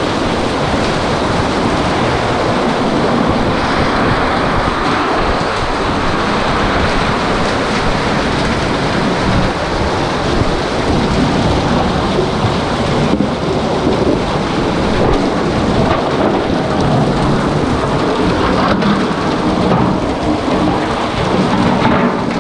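Heavy rain falling steadily in strong wind, a dense, unbroken noise of downpour.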